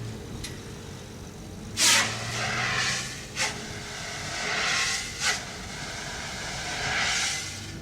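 Motor vehicle with a steady low engine hum, broken by three sharp short bursts of noise about two seconds apart and slower swells of noise between them.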